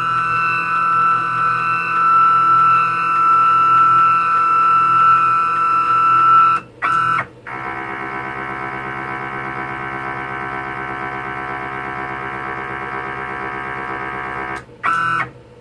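CNC router's stepper motors whining steadily as the machine homes, noisy. One loud steady whine lasts about six and a half seconds, then after a brief stop a quieter whine at a different pitch runs for about seven seconds before cutting off.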